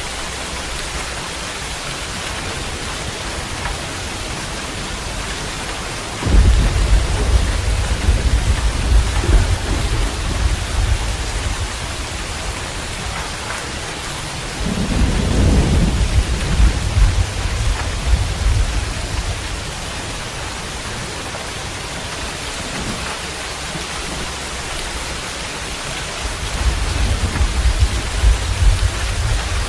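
Steady rain hissing, with three deep rolls of thunder that start abruptly about six, fifteen and twenty-six seconds in and rumble on for several seconds each.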